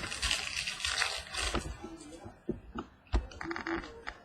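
Trading cards being handled: a rustling slide of cards and pack wrapper for the first couple of seconds, then scattered light clicks and taps as cards are flipped and set down.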